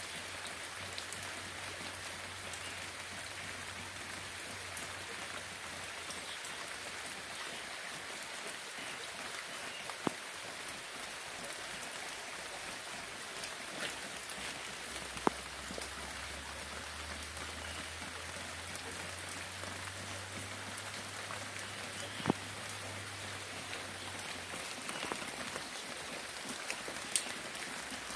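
Steady rain falling as an even hiss, with a few louder single drips striking sharply now and then.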